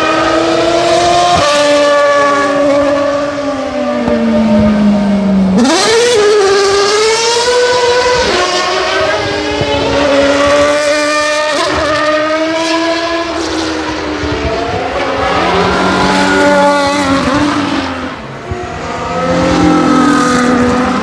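Racing car engines at high revs, the pitch climbing and dropping again and again through gear changes as the cars pass.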